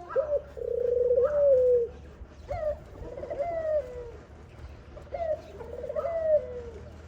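Dove calls: three drawn-out calls, spaced about two and a half seconds apart. Each rises sharply at the start, then falls, with a quavering stretch in the middle.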